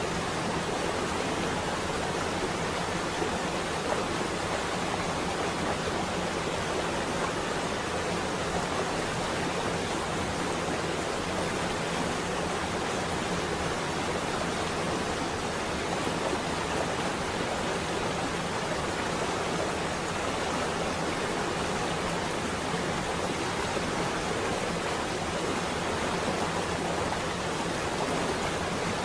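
Steady rain on a window glass, an even hiss without breaks and no thunder in this stretch.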